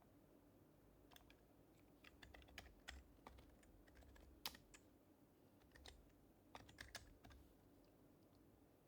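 Faint typing on an HHKB Professional Hybrid Type-S keyboard with silenced Topre switches: keystrokes in short irregular bursts, starting about a second in and stopping a little after seven seconds.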